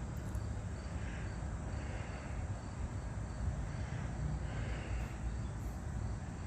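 Steady outdoor background rumble with no distinct event, and faint high chirps repeating evenly above it.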